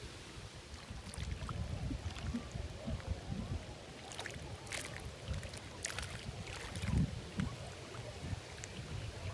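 Lakeside ambience: wind rumbling on the microphone over water lapping, with a few faint sharp ticks midway.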